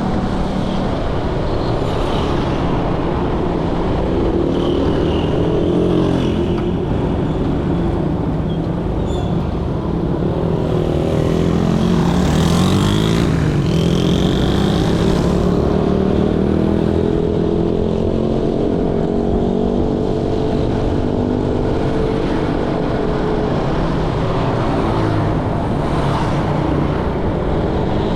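Motorcycle riding through dense motorbike traffic: engines run all around, their pitch rising and falling as bikes speed up, slow and pass, over a steady low rumble of road and wind noise on the helmet camera's microphone.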